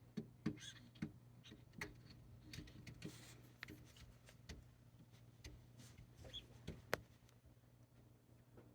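Faint, irregular clicks and crunches of small wild animals feeding, the sharpest just before the seven-second mark, over a low steady hum.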